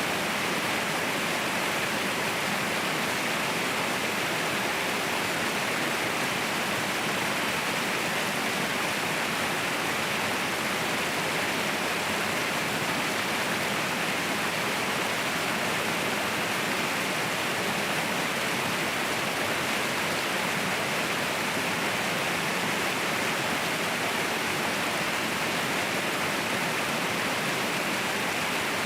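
Waterfall pouring in a steady, even rush of falling water.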